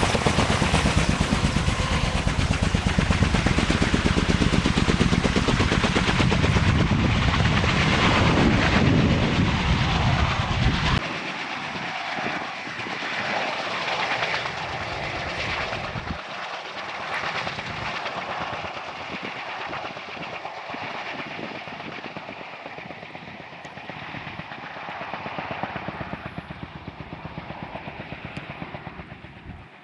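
Kaman K-MAX helicopter's intermeshing twin rotors beating in a rapid, steady chop. It is loud for about the first eleven seconds, then suddenly quieter and thinner, and fades slowly after that.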